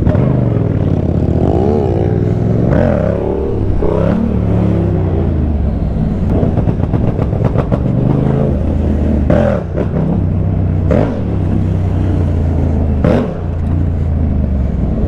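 Motorcycle engine running under way, its note rising and falling several times as the bike accelerates and backs off, with a few brief dips later on.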